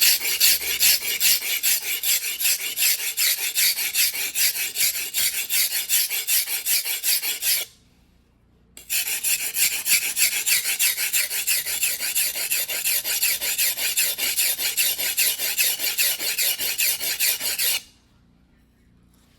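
Single-bevel sashimi knife blade pushed back and forth on a wet whetstone in hand sharpening, a quick, even rasping scrape of steel on stone. It runs in two long bouts with a short pause about eight seconds in, then stops near the end.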